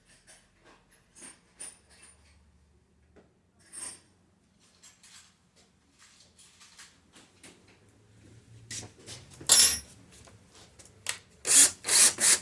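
Metal tools clinking and being handled, then several short loud bursts near the end as a power drill is triggered in pulses, getting ready to drill out a seized brake rotor retaining screw.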